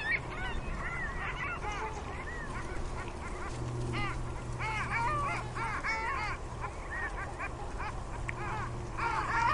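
A flock of birds calling: many short rising-and-falling calls overlapping one another, with a low steady hum underneath.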